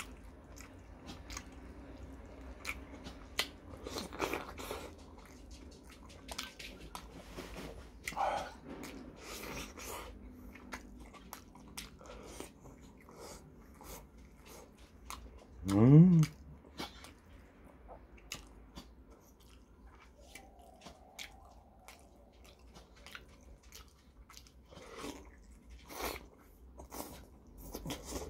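Close-up mouth sounds of eating: chewing and biting into breaded chicken pieces and ramen, with many small wet clicks and smacks. About halfway through comes one short rising vocal hum from the eater, the loudest sound.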